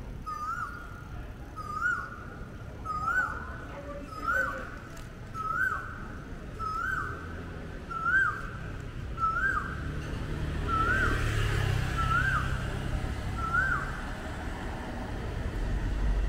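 A bird calling the same short note over and over, rising and then dropping, about once every 1.3 seconds, eleven times, stopping a few seconds before the end. Partway through, a vehicle passes with a low rumble.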